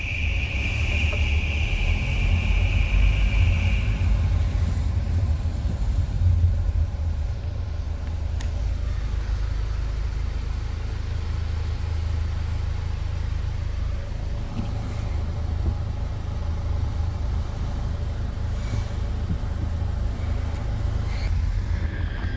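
Steady low mechanical rumble that runs throughout. A steady high-pitched tone sounds over it for the first four seconds, then stops.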